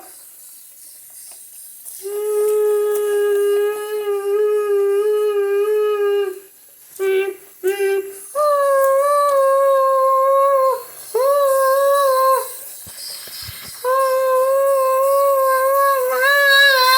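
A person's voice humming long, steady held notes, each one to four seconds long, with short breaks between. The first note is lower and the later ones a little higher.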